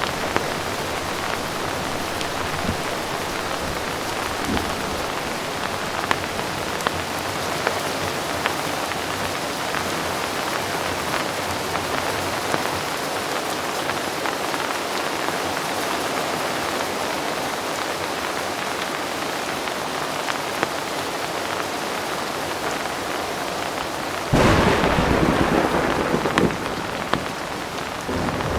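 Heavy rain falling steadily, with individual drops ticking sharply on a surface. Near the end a thunder rumble breaks in suddenly, louder than the rain for a few seconds before it fades back.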